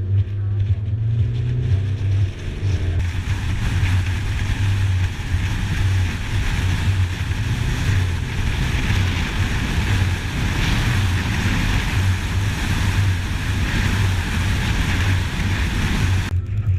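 A steady noisy rush, like wind blowing across the microphone, over a continuous low hum. It starts abruptly a few seconds in and cuts off just before the end.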